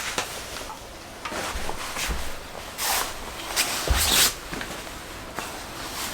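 Handling noises: a few short swishes about three and four seconds in, amid small clicks and low knocks.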